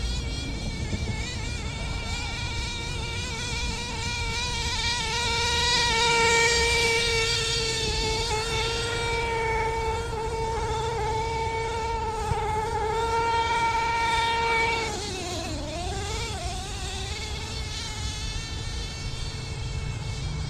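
Redcat Earthquake nitro RC truck's small glow-fuel engine running at high revs with a steady, high buzzing whine. About fifteen seconds in the pitch dips sharply and climbs back, then the engine runs on a little quieter.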